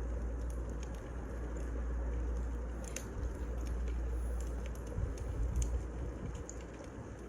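Firewood burning: a steady low rumble of the fire with scattered sharp crackles and pops.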